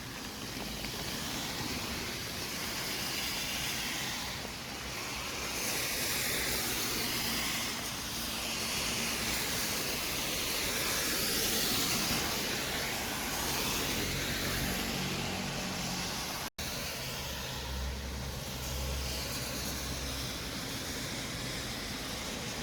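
City street traffic: the steady hiss of passing cars' tyres, swelling and easing as vehicles go by, with a deeper engine rumble from a heavier vehicle in the last third. The sound cuts out for a split second about two-thirds of the way through.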